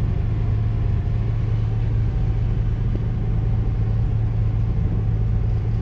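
A motor vehicle's engine idling, a steady low hum that holds even throughout.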